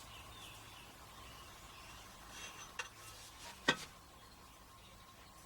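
Quiet handling as copper anti-seize is brushed onto the end of an exhaust pipe, with a small click a little before the middle and a sharper, louder click about two-thirds of the way through.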